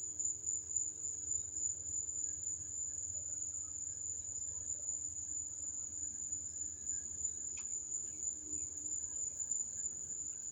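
Crickets chirring in one continuous high-pitched trill, with a low steady rumble beneath.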